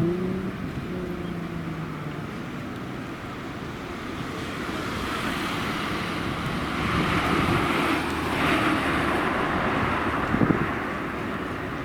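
A car driving by: a pitched engine note at the start dies away, then a rushing noise of tyres and air swells to its loudest about seven to nine seconds in and eases off.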